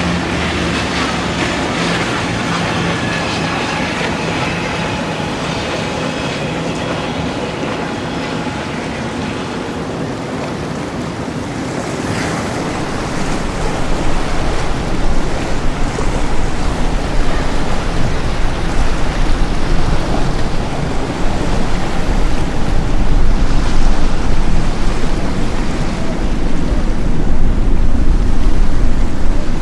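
Boat engines running over a wash of waves and wind. About halfway through, a deep low rumble builds and the sound grows louder.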